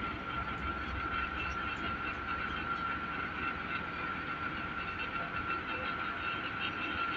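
John Deere tractor engine running steadily, with a steady high whine over the rumble.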